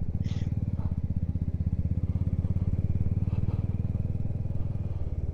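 Motorcycle engine running steadily while under way, a low, evenly pulsing exhaust note.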